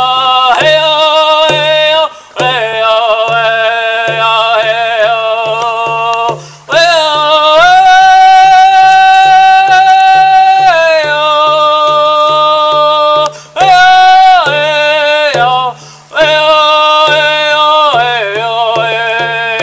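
Man singing a Native American spiritual song in long held notes that slide between pitches, with short breaks between phrases, over a steady low beat of about two pulses a second.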